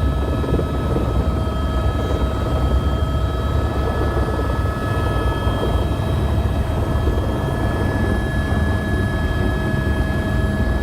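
Helicopter running steadily: a dense, low, even rotor-and-engine noise with a few steady whining tones above it.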